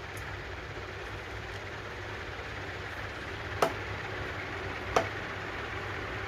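Steady low hum with two sharp clicks, a little over a second apart, after the middle: small carburetor parts or tools being handled during disassembly.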